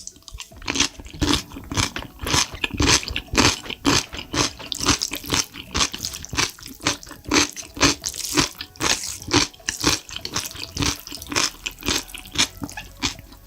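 Close-miked mukbang eating of spicy noodles: wet chewing and lip-smacking in quick, repeated mouthfuls, several sticky clicks a second.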